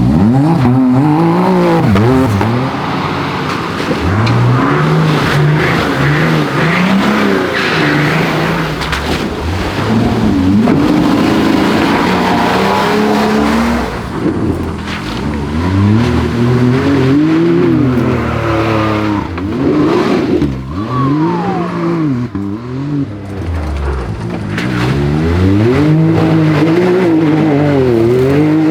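Competition 4x4 engine revved hard again and again, its pitch climbing and dropping every second or two.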